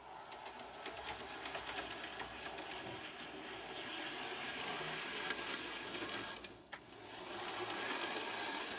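Model railway locomotive, a model of class 47 diesel 47727, running along the track: a small electric motor whirring with rapid fine clicking from the wheels on the rails. The sound swells, dips briefly about six and a half seconds in, then swells again.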